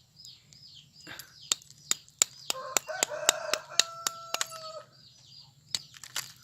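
A rooster crowing once, a call of about two seconds near the middle, over a run of sharp clicks at about three a second and repeated high bird chirps.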